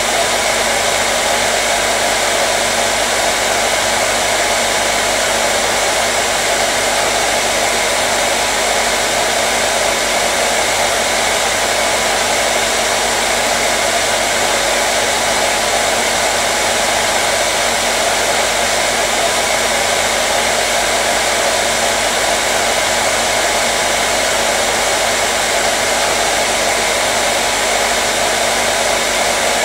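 Hair dryer running steadily: an even, unchanging airy whoosh of the fan with a faint steady motor hum.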